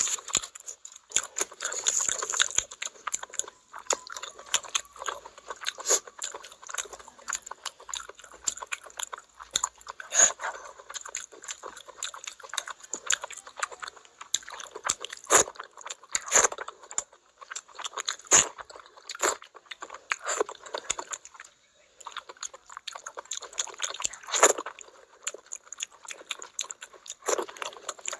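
Close-miked eating: chewing of rice and curry with many irregular sharp clicks and wet crackles, along with the squish of a hand working through the rice and curry.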